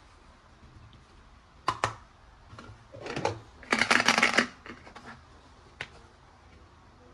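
Hands handling plastic toy parts and packaging: a couple of sharp plastic clicks, then a dense burst of crinkling and rattling lasting about a second and a half, and one more click near the end.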